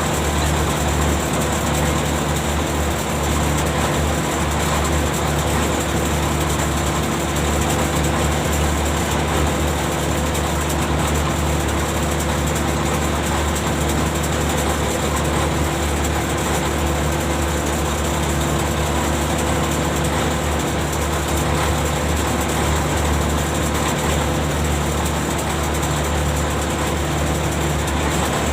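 Ship's machinery running with a steady low drone of several fixed tones, unchanging throughout.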